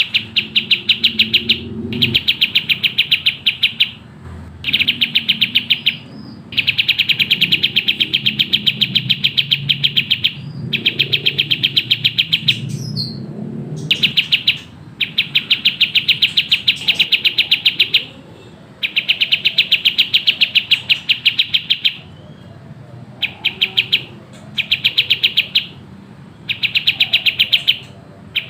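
Kapas tembak bird singing in fast, tightly packed bursts: rapid strings of high repeated chirp notes lasting a second or a few seconds each, broken by short pauses.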